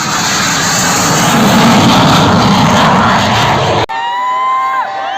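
Jet aircraft flying past, a loud engine roar that builds to a peak about two seconds in and then eases. The sound cuts off abruptly near the end, and steady high whistling tones that slide up and down follow.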